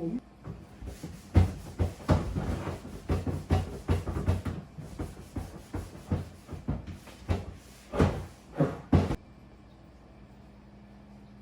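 A run of irregular knocks, clunks and rattles of things being handled, which stops abruptly about nine seconds in. After that only a faint steady hum is left.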